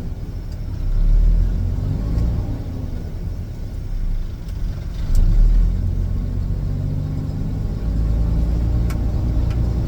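Dump truck's diesel engine heard from the cab, with a heavy low rumble; its pitch rises and falls a couple of times as the truck pulls forward.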